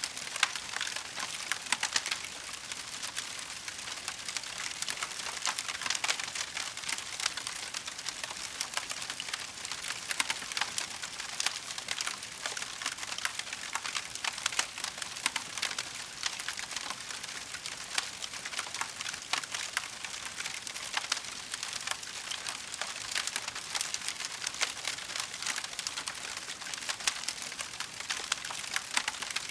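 Wood fire crackling in a fireplace: a steady stream of small, dense pops and snaps over a soft hiss, with a few sharper cracks scattered through.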